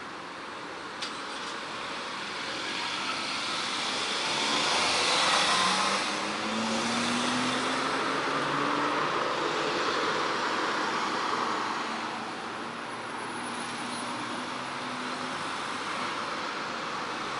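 Road traffic passing a moving bicycle: a motor vehicle goes by, loudest about five seconds in, its engine rising in pitch, over steady road and wind noise.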